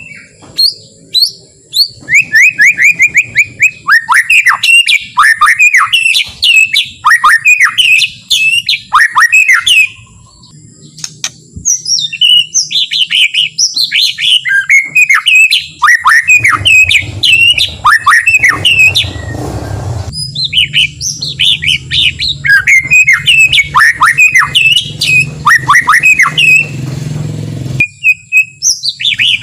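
White-rumped shama singing loudly: fast runs of sweeping whistles and chattering phrases, broken by a few short pauses. A low steady hum sits underneath during the second half.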